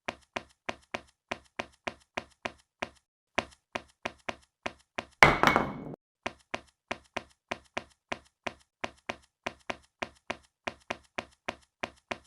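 Evenly spaced sharp clicks, about three to four a second, like a ticking sound effect, broken once about five seconds in by a louder short crash with a brief ringing tone.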